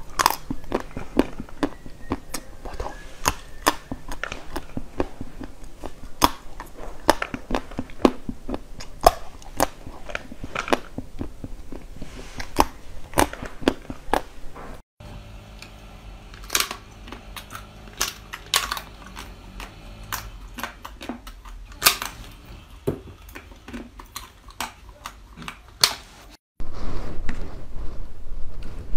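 Frozen chocolate pieces being bitten and chewed close to the microphone: a rapid run of crisp cracks and crunches, a few sharper than the rest, breaking off briefly twice.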